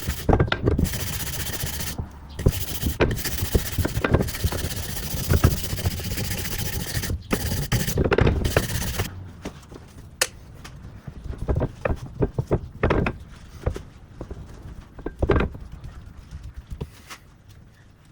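Rough rubbing and scraping strokes of parts being cleaned by hand, stopping abruptly about nine seconds in. After that come scattered light knocks and clicks.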